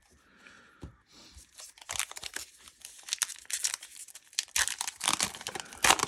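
A trading-card pack wrapper crinkling and tearing as it is handled and opened, quiet at first and then rapid crackling from about two seconds in, loudest near the end.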